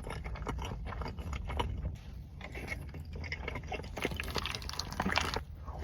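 Close-up eating sounds of a person chewing mac and cheese: soft, wet mouth sounds with many small irregular clicks and smacks.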